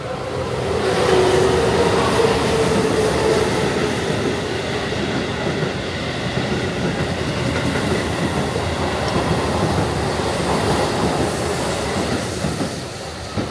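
Keihan Electric Railway train running by on the rails, its wheels clattering. The sound builds to a loud steady rumble within about a second and eases off near the end, with a whine in the first few seconds.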